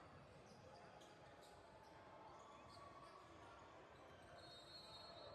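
Faint basketball game sounds in a gym: a basketball bouncing on the court, with short high squeaks and distant voices.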